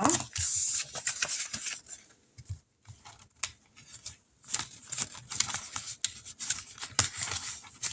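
Paper money and envelopes being handled: rustling and crinkling with many small crisp clicks and taps, busiest in the first second.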